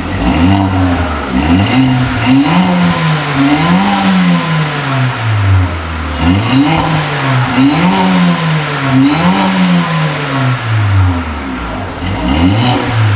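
Mercedes-AMG A45's turbocharged 2.0-litre four-cylinder revved in repeated blips through a 3.5-inch downpipe and high-flow sports catalytic converter, the exhaust note rising and falling about once every one to two seconds.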